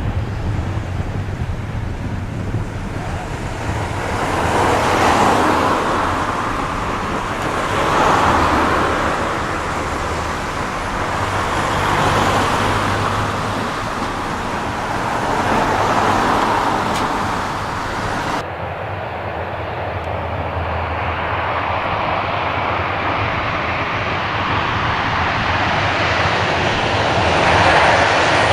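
Distant engine noise, swelling and fading every few seconds. The sound changes suddenly about two-thirds of the way in and grows louder near the end.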